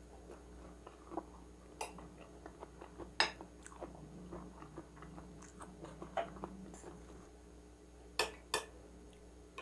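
Close-miked chewing of a soft bite of fresh spring roll, with small wet mouth clicks and smacks. Near the end a metal fork clinks twice on a ceramic plate.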